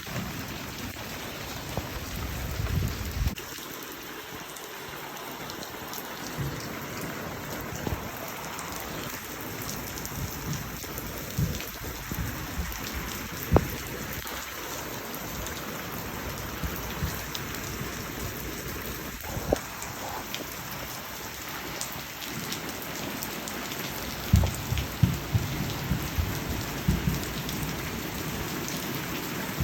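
Heavy thunderstorm rain pouring steadily, with sharp ticks of drops hitting close by. Low rumbles come in about two seconds in and again near the end.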